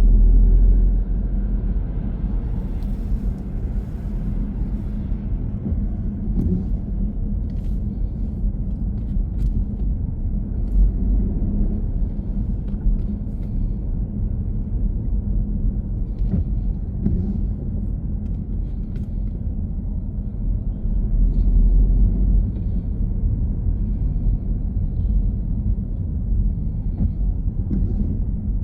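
A car driving: steady low rumble of road and engine noise. It is a little louder at the start and settles about a second in.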